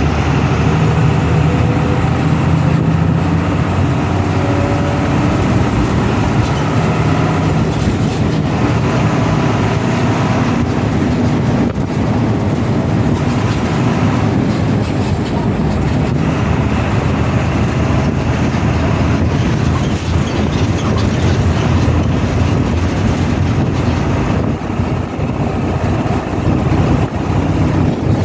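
Moving bus heard from inside the cabin: the engine running under steady road and body noise, its note rising in pitch over the first few seconds.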